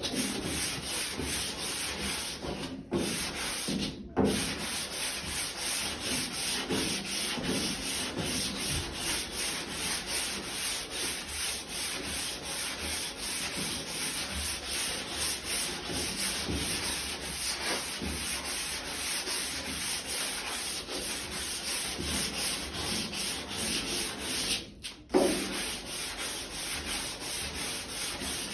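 Long sanding block rubbed back and forth by hand over a car's quarter panel coated with a light black guide coat, at about two strokes a second, with a few short breaks. This is blocking the bodywork, which shows up the high and low spots.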